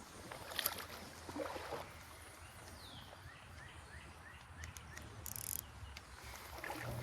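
Quiet outdoor ambience: a bird gives a quick series of about six small chirps midway, with a few faint clicks and knocks before it.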